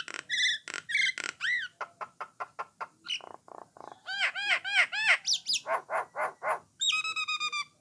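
Jalak nias (hill myna) singing a fast, varied run of short whistles and clicks, with a string of arched, rising-and-falling whistles in the middle and a longer held note near the end.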